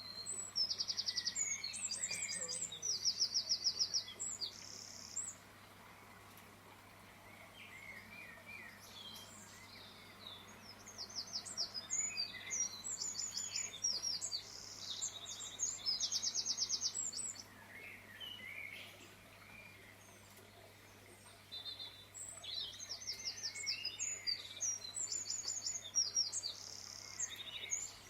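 Songbirds singing: three bouts of quick, high-pitched trilled phrases about ten seconds apart, with softer chirps between them.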